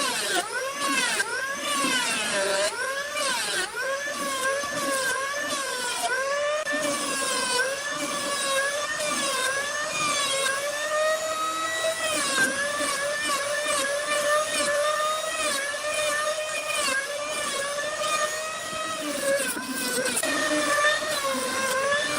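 An electric power tool's motor running continuously, its pitch dipping and recovering over and over as it is pushed into the wood and eased off.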